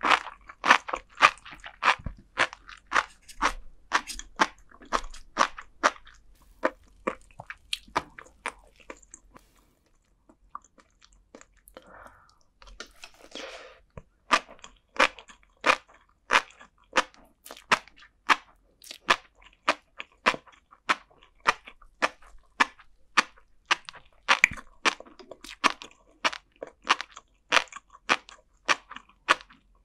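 Close-miked chewing of flying fish roe and sea grapes: rapid, crisp popping clicks as the little eggs and grape-like beads burst. The popping stops for a few seconds about a third of the way through, then picks up again.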